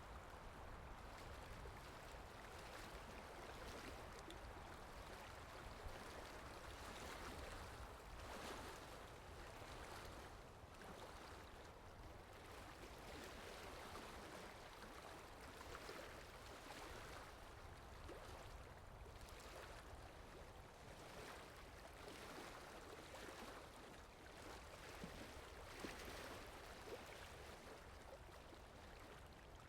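Near silence: a faint steady hiss, with soft swishes now and then.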